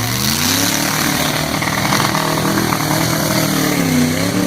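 Mud truck engine revving hard: the pitch climbs at the start, holds and wavers, then drops and rises again near the end.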